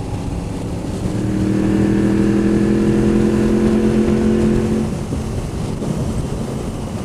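Motorcycle engine pulling under load with wind rush. The engine note swells about a second in and eases off around five seconds.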